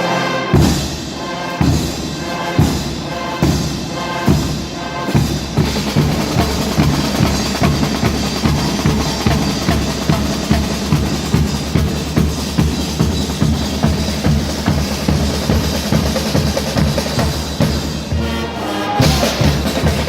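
Guggenmusik carnival band playing loud: heavy bass drum and snare hits under brass chords for the first few seconds, then a steady fast drum groove with cymbals, and the brass coming back in near the end.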